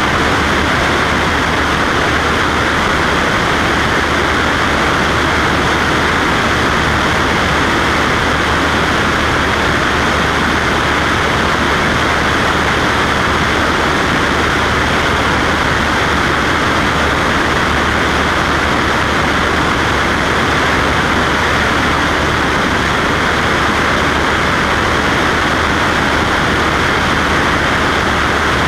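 Cessna Skywagon's piston engine and propeller drone in steady cruise flight, a constant low hum under a dense rushing noise that does not change.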